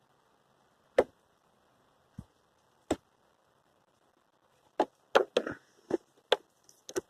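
Scattered sharp plastic clicks and taps, a few spaced out at first and then a quicker cluster in the second half: hands working at the under-hood fuse box of a 2007 Nissan Altima to get a fuse out.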